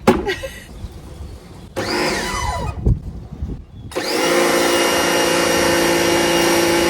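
After some shorter noise, an electric pressure washer's motor starts abruptly about four seconds in and runs steadily at one pitch. It is spraying but not drawing up snow foam, because the pickup pipe is not in the bottle.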